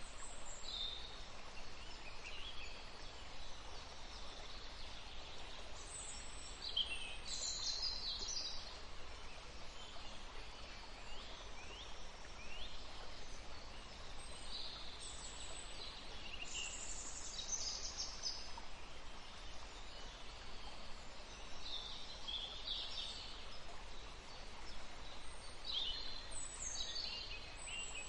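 Songbirds chirping and trilling in a forest, several short high calls coming in clusters every few seconds over a steady faint background hiss.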